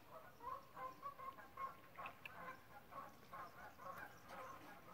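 Faint, quick run of short bird calls, several notes a second, going on steadily.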